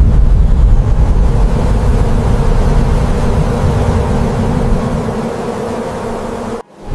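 Loud steady buzzing drone of a bee swarm over a low rumble, cutting out abruptly for a moment near the end.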